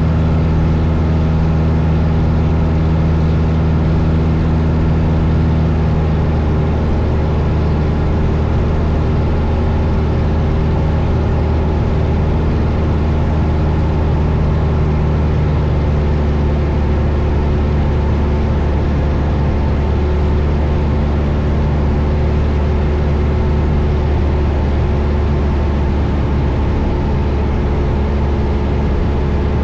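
A 1972 Cessna Skyhawk's four-cylinder piston engine and propeller drone steadily in flight, heard inside the cabin.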